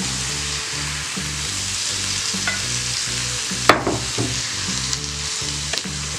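Boiled chickpeas sizzling as they fry in onion-tomato masala in a nonstick pan, stirred with a wooden spatula. A sharp knock of the spatula against the pan comes a little past halfway, with a few lighter scrapes and taps after it.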